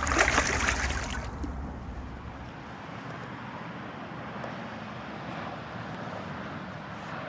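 A loud burst of splashing water for about a second and a half as a released carp kicks away, then steady wind noise on the microphone.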